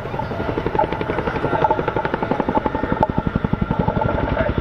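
The tandem rotors of an RAF Boeing Chinook helicopter beat in a rapid, regular thudding rhythm, which grows stronger about halfway through.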